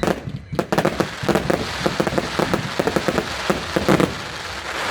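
Fireworks going off: a rapid, dense string of bangs and crackles over a hiss.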